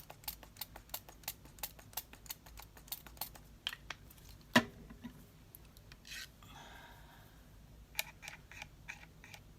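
Light clicks and taps of craft supplies being handled on a worktable, at about three a second, with one sharp louder knock about halfway through and a brief rustle after it.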